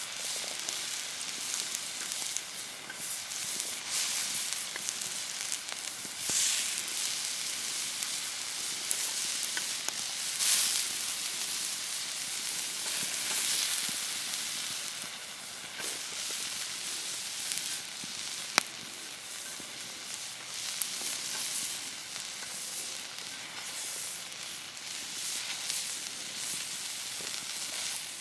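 Wood fire crackling with a steady hiss, and two sharp pops a little past the middle.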